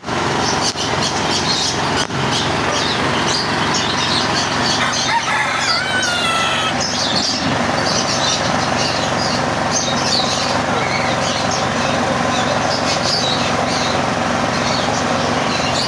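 Many caged birds chirping and calling together over the steady noise of a busy market, with a run of falling whistled notes about five to seven seconds in.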